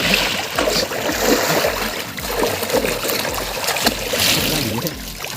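Water sloshing and splashing as people move about in a tractor trailer filled with water, with brighter splashes near the start and about four seconds in.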